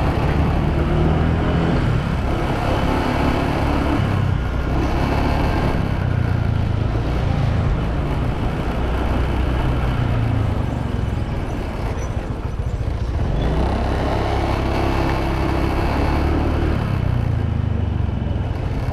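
Motorbike engine running under way, with wind and road noise; its pitch steps up and down as the bike changes speed, climbing about thirteen seconds in.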